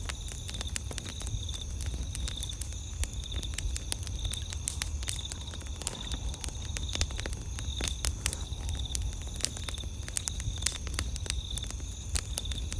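Wood campfire crackling, with frequent sharp irregular pops and snaps over a low rumble. Night insects chirp steadily in the background, a high pulsing call that keeps up throughout.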